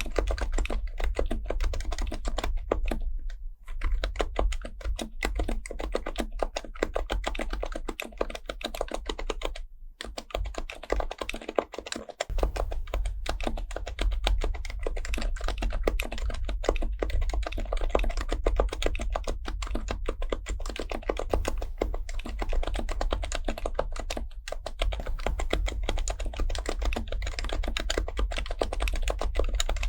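Fast, continuous typing on an HHKB Professional Type-S keyboard, its silenced Topre capacitive keys clicking in a quick, dense patter. The typing pauses briefly about three seconds in and again about ten seconds in.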